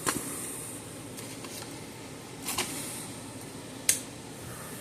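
A few sharp clicks and taps from handling small parts and tools on a workbench, three in all: one at the start, one about two and a half seconds in and one near four seconds, over a faint steady room hum.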